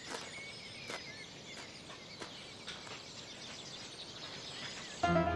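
Birds chirping and calling, many short high notes, over a faint outdoor hush. Near the end, plucked-string music comes in suddenly.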